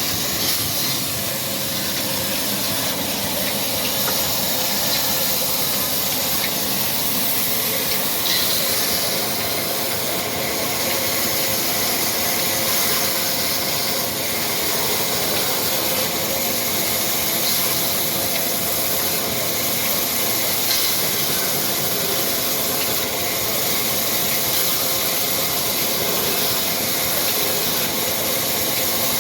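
Old black Ruston Hornsby diesel engine running steadily under a loud, even hiss.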